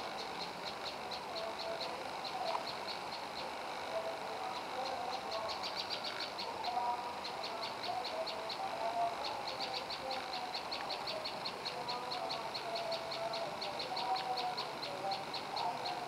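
Prenjak lumut calling: a long run of short, sharp, high notes repeated evenly at about five a second, broken by a few brief pauses, over scattered lower chirps.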